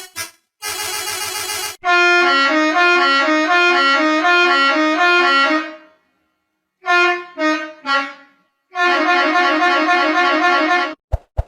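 Bus musical horn playing a quick tune of stepping notes for about four seconds, then three short toots, then another melodic run of about two seconds. A short harsh blast comes just before the tune, and two brief clicks follow near the end.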